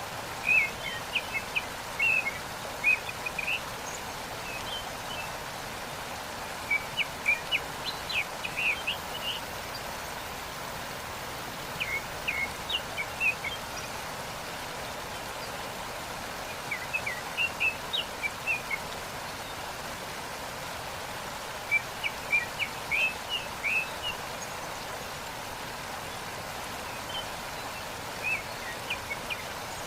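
Steady rush of falling water from a waterfall, with a small bird singing short bursts of chirps about every five seconds.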